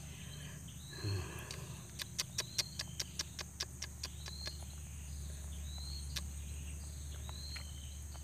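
A bird calling over and over, short high arching notes every second or two, with a quick run of about a dozen sharp clicks a couple of seconds in, over a low steady rumble.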